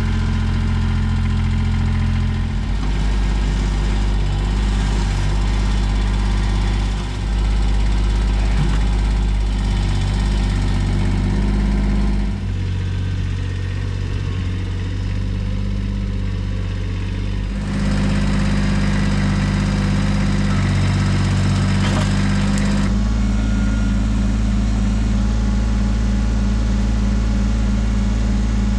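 Kubota BX23S compact tractor's three-cylinder diesel engine running, its note stepping up and down several times as engine speed or load changes.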